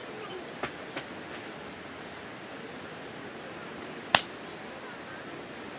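Wood fire burning in a campfire pit with a steady hiss and crackle; two small snaps under a second in, then one loud, sharp pop about four seconds in.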